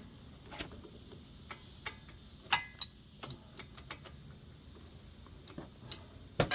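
Irregular metallic clicks and clinks of hand tools and steel suspension hardware being handled, about a dozen at uneven spacing. A few ring briefly, and the loudest clink, near the end, leaves a short metallic ring.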